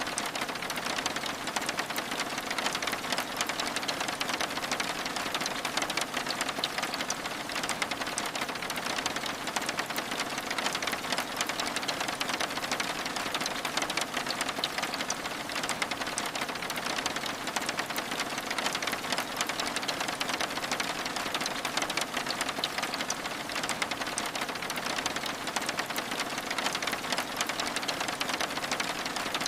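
Steady rain on window glass: a dense, even patter of many small drops that keeps up without a break.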